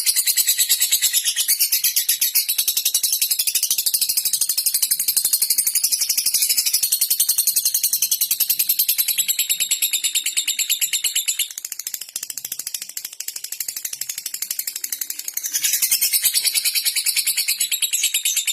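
Lovebird singing a long, rapid, high-pitched chattering trill, the 'ngekek' song. It drops back for a few seconds about twelve seconds in, then picks up again.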